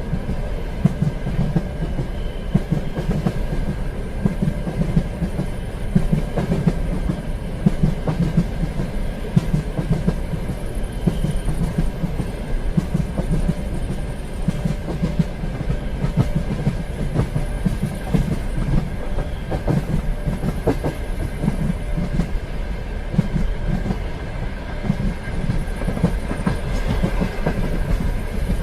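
Passenger train running steadily on the rails, a continuous low rumble with rapid clickety-clack of wheels over the track and a faint steady whine.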